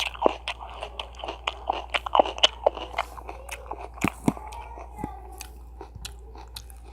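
Close-up crunchy chewing and biting of food, a quick run of crackling crunches that thins out after about three seconds into a few sparser crunches.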